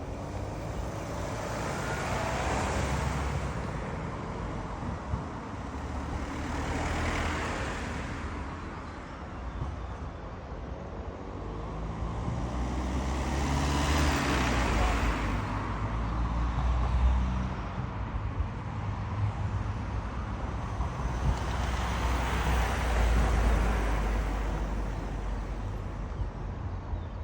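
Road traffic: a steady low rumble with vehicles passing one after another, each swelling and fading away. One passing vehicle, about halfway through, carries an audible engine hum.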